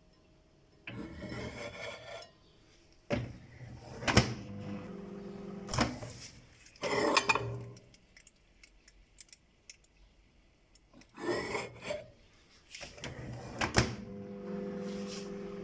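Kitchen utensils and dishes handled in several short bursts of scraping and clinking. Near the end a steady hum starts: a microwave oven running.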